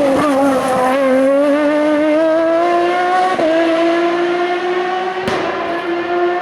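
Race car engine held at high revs under acceleration, its note climbing slowly, with a brief dip at a gear change about three seconds in and a single sharp crack about five seconds in.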